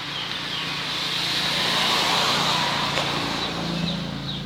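A vehicle passing by, its noise swelling to a peak about two seconds in and then fading, with a low engine hum near the end.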